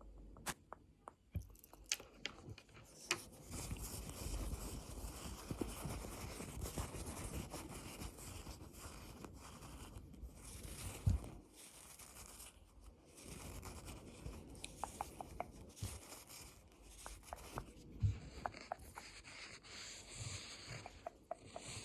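Close-miked ASMR trigger sounds: a few light taps, then a long stretch of dense scratchy, crackling rubbing, with scattered taps again near the end.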